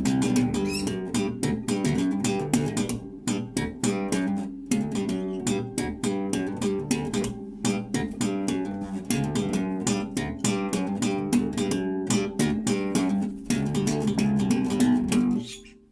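Bass guitar played fingerstyle: a steady stream of quick plucked notes, stopping shortly before the end.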